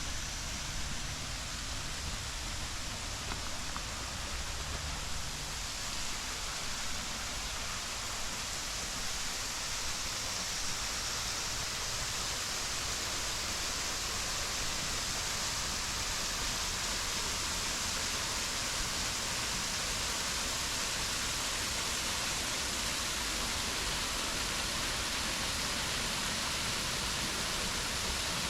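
Waterfall rushing: a steady, unbroken hiss of falling water, with a low rumble underneath.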